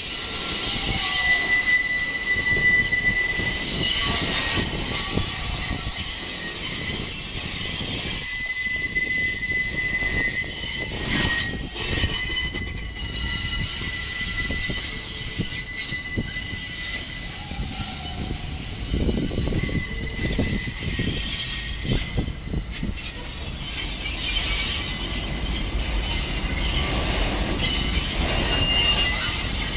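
New York City Subway R68/R68A cars' steel wheels squealing on the tight curves of yard track: several high, steady squeals at once over the low rumble of the wheels on the rails.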